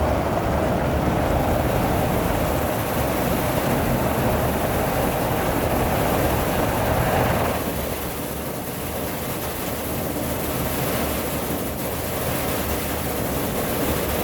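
Water spraying inside an automatic car wash, heard from inside the vehicle: a steady hiss and splash of spray. It drops in level about halfway through, then fades at the very end.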